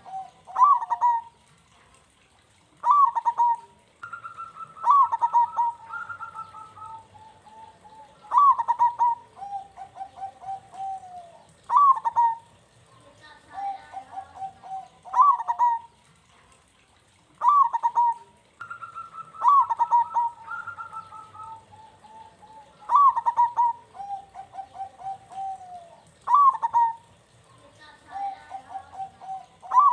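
Zebra dove (perkutut) cooing: a phrase every couple of seconds, made of short, sharp falling notes alternating with longer drawn-out trilled coos. The same sequence of phrases repeats about every 15 seconds.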